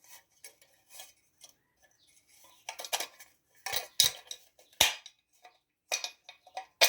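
Small metal engine parts and bolts clinking and tapping as they are handled and fitted by hand: a run of light, irregular clicks, with a few sharper knocks in the second half.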